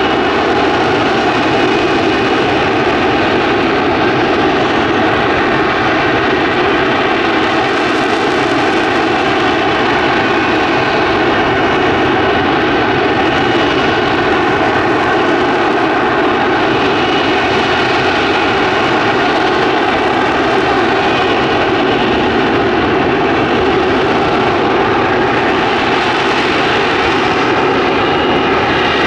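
F-35B Lightning II in hover, its F135 jet engine and shaft-driven lift fan running loud and steady, with a high whine over the jet noise that brightens slightly now and then.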